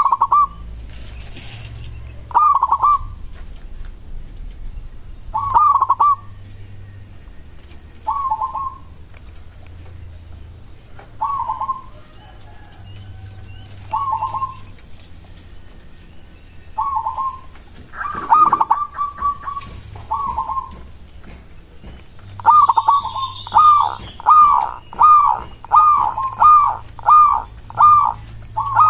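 Zebra dove (perkutut) cooing: short soft phrases every two to three seconds, then a quicker run of coos about two a second in the last third. Fainter high chirps from another small bird join near the end, over a steady low hum.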